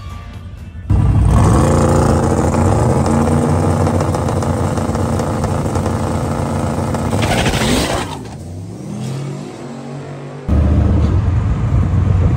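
A vehicle engine running at high revs, held steady for about six seconds, then a short burst of noise as the revs fall away; a second loud stretch of engine cuts in abruptly near the end.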